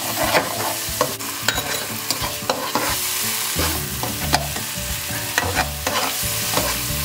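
Butter-chicken masala of onion, tomato purée and yogurt sizzling in a nonstick kadai just after a splash of water, while a metal spatula stirs and scrapes it with many sharp, irregular scrapes and taps against the pan.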